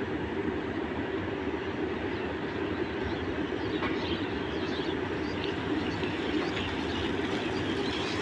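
Goods train rolling along the track: a steady, even rumble of the wagons running past, with a few faint short high chirps over it.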